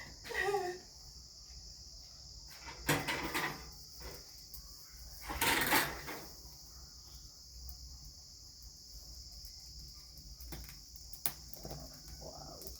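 Insects chirring steadily in a high, continuous drone, with two brief louder noises about three and five and a half seconds in.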